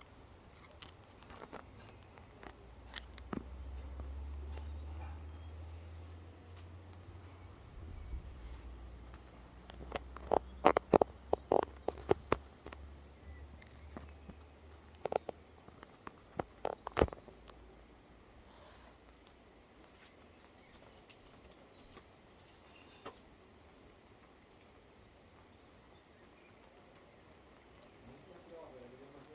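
Low rumble of distant thunder swelling and fading over several seconds, under a steady high pulsing chirr of insects. A cluster of sharp clicks about ten seconds in and a few more around fifteen to seventeen seconds are the loudest sounds.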